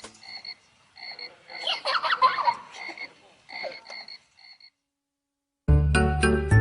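Frog calls: a series of short, steady-pitched croaks repeated a few times a second, thickening into a cluster of overlapping calls about two seconds in and fading out. Music comes in near the end.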